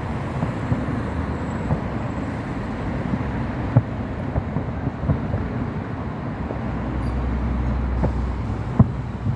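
A steady low outdoor rumble with a few sharp, distant pops of fireworks bursting; one is a little louder near the end.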